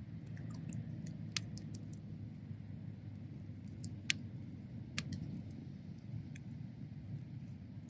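Wood bonfire burning with a steady low rumble and scattered sharp crackles and pops, the loudest about four seconds in and another a second later.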